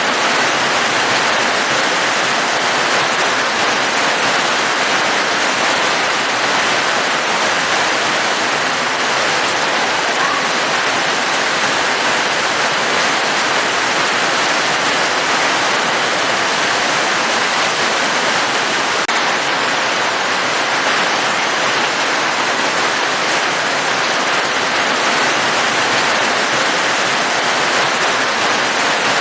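Heavy rain falling steadily: a dense, even hiss with no breaks or changes.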